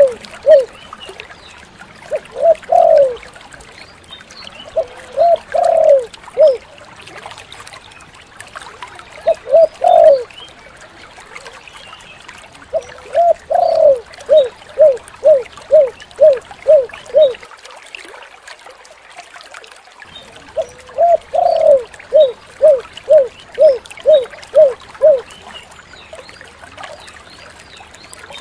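Spotted dove (tekukur) cooing over and over in short phrases, then in two long runs of about eight quick coos each, around the middle and later on: the long 'kuk 7' song, with many 'kuk' notes in a row, that dove keepers prize.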